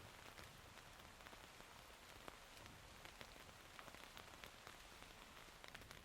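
Faint steady rain falling, with many separate drops ticking sharply on nearby surfaces.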